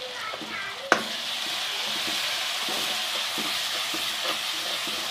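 Masala of browned onion, ginger-garlic paste and freshly added ground spices sizzling as it fries in oil in a pan. There is a sharp tap about a second in, after which the sizzle runs steady.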